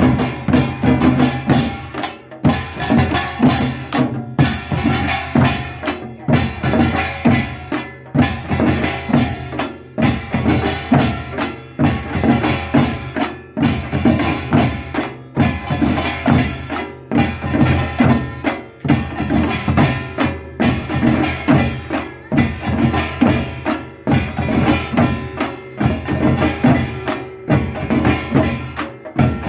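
Korean traditional percussion ensemble (pungmul) playing a fast, driving rhythm of drum and gong strikes.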